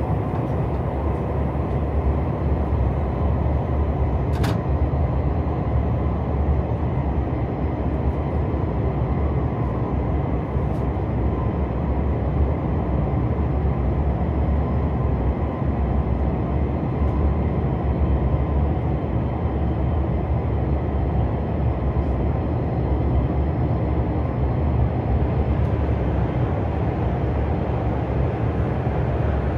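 Cabin noise inside a KTX high-speed train running along the line: a steady low rumble, with a single brief click about four seconds in.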